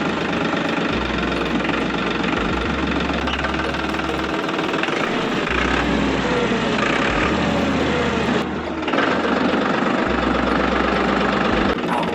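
Small electric motor and gearing of a homemade model tractor running steadily, with a brief break about eight and a half seconds in.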